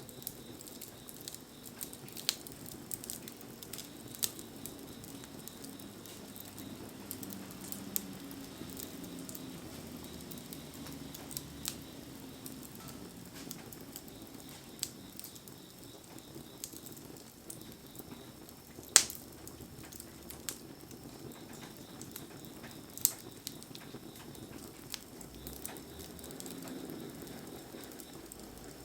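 Wood campfire crackling with scattered sharp pops over a steady hiss of rain, one pop louder than the rest about two-thirds of the way through.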